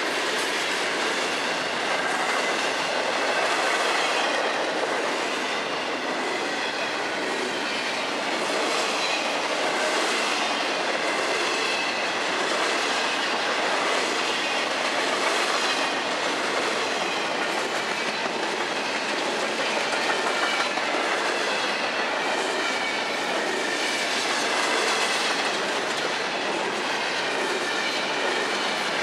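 Freight cars of a long train (open hoppers, then container well cars) rolling past at close range: a steady rolling noise of steel wheels on the rails, with a faint high wavering squeal from the wheels.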